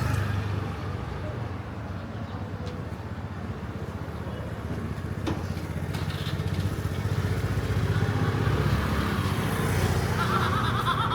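Motorcycle engine running close by in a busy street, the rumble growing louder from about six seconds in, with a single sharp click about five seconds in.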